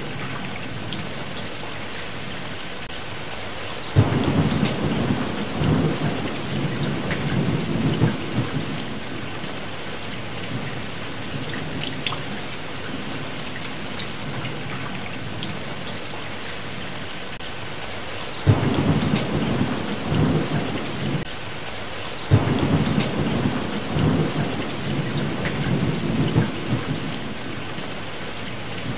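Steady rain with three claps of thunder, about four seconds in, near the middle and shortly after, each starting suddenly and rumbling on for a few seconds.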